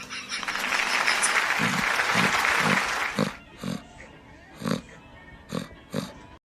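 Animal calls: a harsh, noisy cry for about three seconds, then four short separate grunts. The sound cuts off suddenly near the end.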